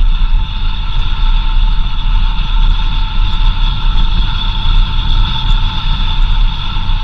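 4x4 vehicle driving along a dirt road: a heavy, uneven low rumble from the engine and the road surface, with a steady high whine over it.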